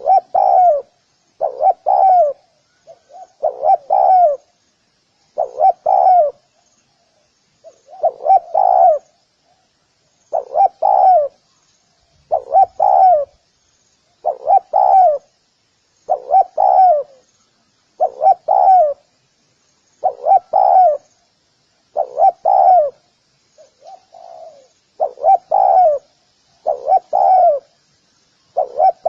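Spotted dove cooing over and over, one short phrase of a few coos about every two seconds.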